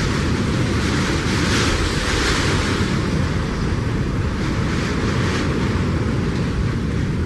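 Storm-force wind blowing hard across the microphone: a loud, continuous rushing with a heavy low rumble of wind buffeting, swelling in gusts a couple of times.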